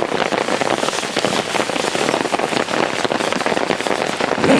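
Heavy rain falling, a dense steady patter of countless drops.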